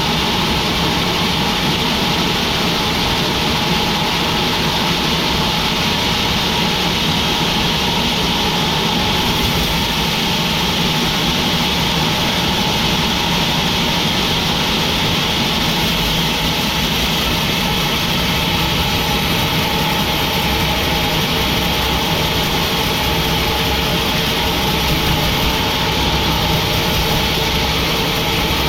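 Sawmill machinery running steadily, a constant mechanical noise with a faint steady hum that does not change in level.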